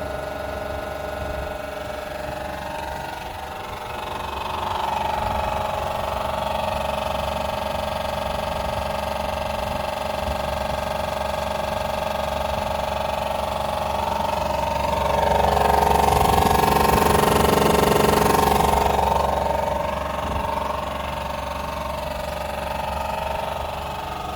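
Tesla Model 3 fan running very loud, a steady multi-tone whine with rushing air. It rises about four seconds in, swells to its loudest with a broad hiss for several seconds in the middle, then eases back.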